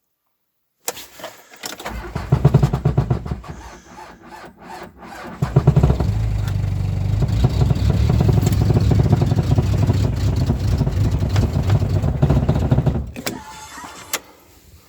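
Mitsubishi Pajero 2.5 L four-cylinder diesel cold-cranked by its starter at −22 °C after glow-plug heating. It starts about a second in, gets louder briefly, then louder again for a long steady stretch, and stops near the end without the engine starting.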